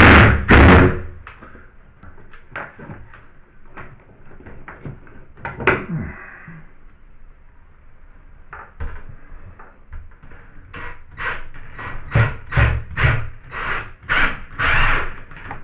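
Irregular knocks and taps of hand work with tools on a wall panel. A louder noisy burst comes right at the start, and a quick run of knocks comes near the end.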